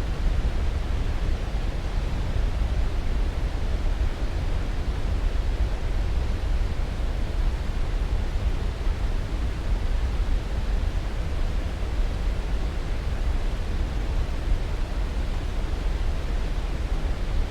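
Continuous sleep-aid noise: an even, unchanging rush weighted toward the low end, like pink noise, with no breaks or events.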